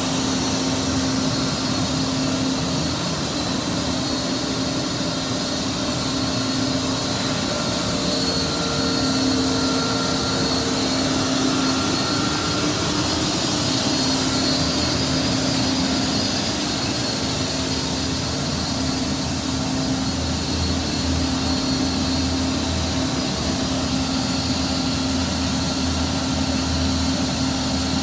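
Boiler burner firing during a fire test, with its combustion-air blower running: a steady roar and rush with a constant hum, the low end deepening slightly a little past halfway.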